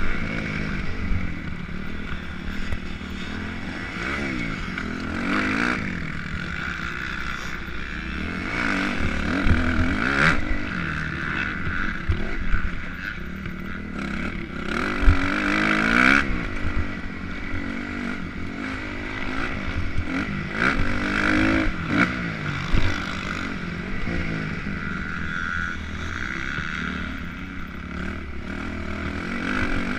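Motocross dirt bike engine heard from on board, revving up and falling back again and again as it runs the track. There are occasional knocks and clatter, the sharpest about halfway through.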